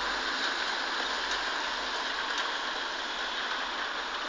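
Steady rain falling in a thunderstorm shower: an even hiss, with a few faint ticks of drops.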